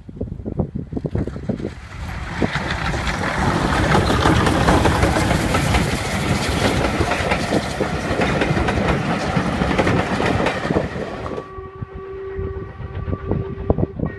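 Train on a heritage steam railway, clattering over the rail joints with a loud hiss that builds over the first few seconds. Near the end the hiss cuts off abruptly and a steady high tone rings on.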